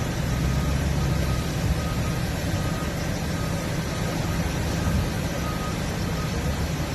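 Large diesel fire apparatus engine running steadily at a low rumble, with a faint high beep repeating about once a second.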